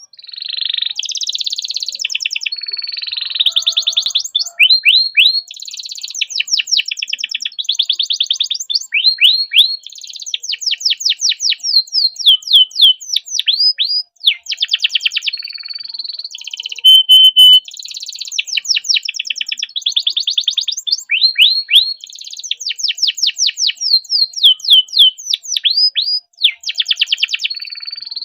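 Domestic canary singing a long, near-continuous song of fast rolling trills and rapid runs of repeated whistled notes, pausing only briefly about halfway through and again near the end.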